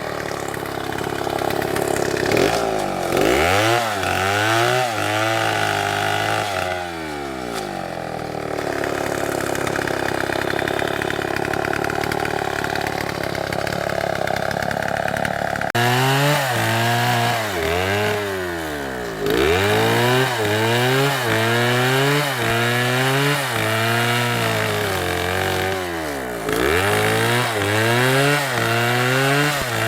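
STIHL chainsaw cutting wood, its engine note repeatedly dipping and rising in pitch about once a second. It holds a steadier note for several seconds in the middle, then the dipping and rising starts again.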